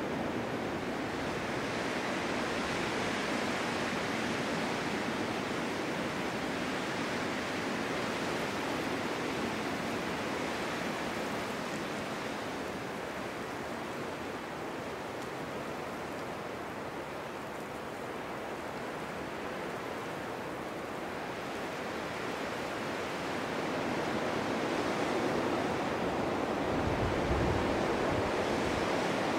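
Snowstorm wind blowing steadily, easing off through the middle and building again in gusts toward the end, with a brief low buffet of wind on the microphone near the end.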